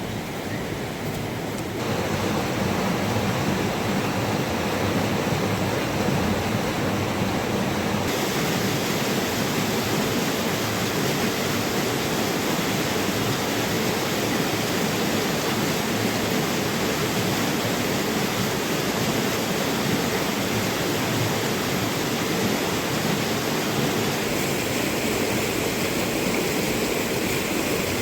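Steady rushing water noise, even and without distinct drops or splashes, growing louder about two seconds in.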